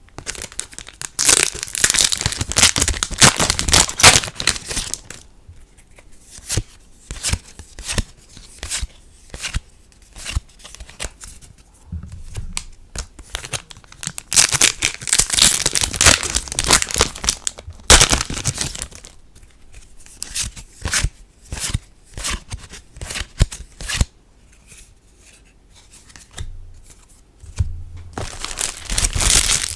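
Trading-card booster pack wrappers crinkling and tearing open in three loud bouts, about a second in, midway and near the end. Between them come short clicks and snaps of cards being handled.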